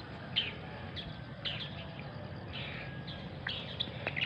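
Birds chirping: short, high, downward-sliding chirps about once a second, over a low steady rumble.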